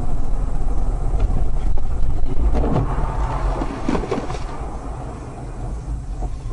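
Heavy road and engine rumble of a moving vehicle, with a run of knocks and clatter through the middle.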